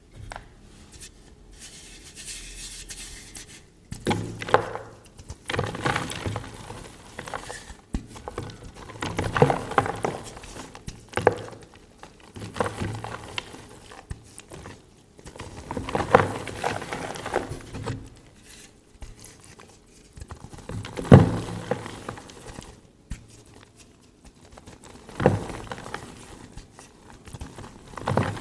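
Block of gym chalk being crushed and crumbled by hand: a series of powdery crunches at irregular intervals, the loudest about three quarters of the way through.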